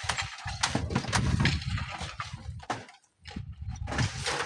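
Strong gusting wind buffeting the microphone, with scattered sharp knocks and scrapes through it; the wind drops out briefly about three seconds in.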